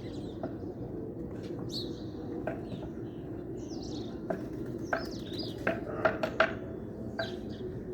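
Small birds chirping in short, repeated high calls, with a cluster of sharp clicks or taps about five to six and a half seconds in, over a steady low background hum.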